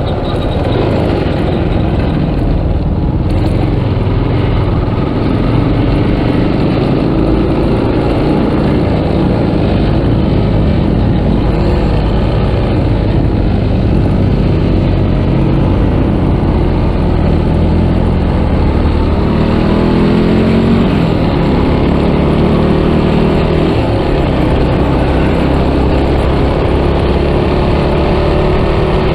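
Yamaha Scorpio motorcycle's single-cylinder engine running on the move under a steady low rumble. Its pitch climbs under acceleration in the second half.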